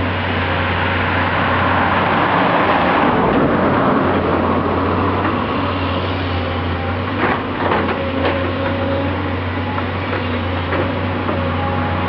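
Excavator's diesel engine running steadily with a deep hum, with a few sharp metallic clanks about seven to eight seconds in.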